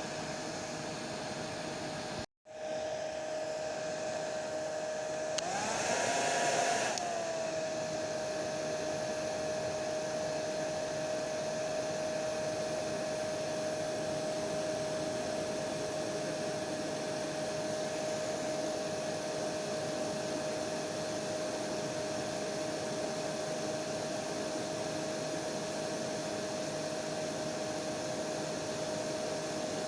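Hair dryer running steadily, a rushing blow with a steady whine. It cuts out for an instant a couple of seconds in, and around six seconds it briefly grows louder with the whine rising a little, then settles back to its even running.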